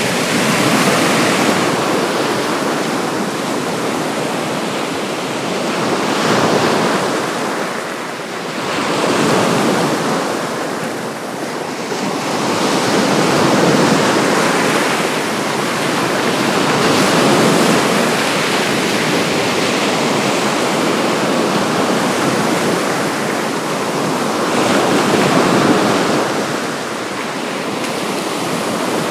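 Baltic Sea waves breaking and washing onto the shore, the surf swelling and easing every few seconds.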